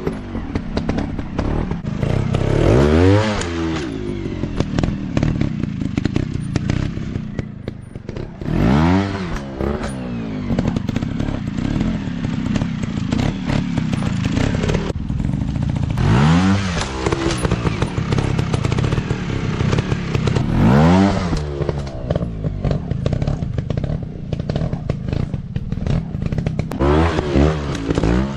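Dirt bike engines revving up and falling back in repeated bursts, about five in all, over a continuous rumble of running engines.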